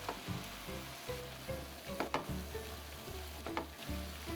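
Thin-sliced marinated beef with onion and mushrooms sizzling in a pan over high heat, with a few sharp clicks about two seconds in and again past three and a half seconds.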